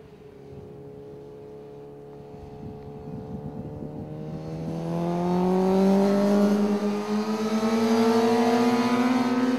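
Superbike engine under hard acceleration, its pitch climbing steadily as the bike approaches and gets louder, reaching full volume in the second half.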